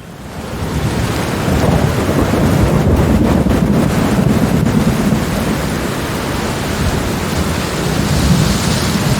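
Thunderstorm: a long roll of thunder rumbling under steady heavy rain, swelling up from a quieter moment about a second in and holding at full strength.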